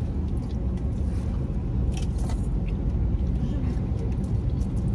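Steady low rumble of a car's running engine, heard inside the cabin, with a few light clinks of a metal spoon against a steel bowl about two seconds in.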